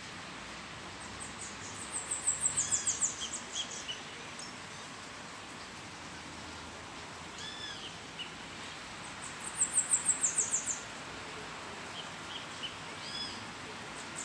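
A small songbird singing: two bursts of rapid, very high notes, each lasting about a second and a half, about 2 s in and again about 9.5 s in. A few short arched chirps come in between, over a faint steady hiss.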